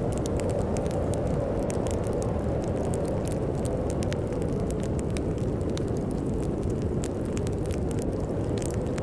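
Wood fire crackling, with frequent irregular sharp pops, over a steady low rumble of storm wind.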